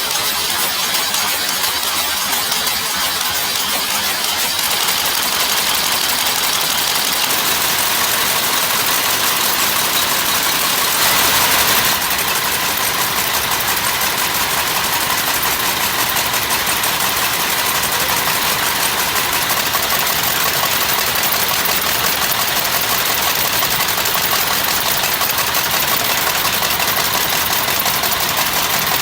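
Machinery running with a steady, dense mechanical noise, strongest in the upper range, briefly louder about eleven seconds in.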